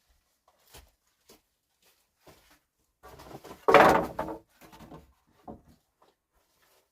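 A few light knocks and rustles of something being handled, with one louder scraping knock lasting about half a second near the middle.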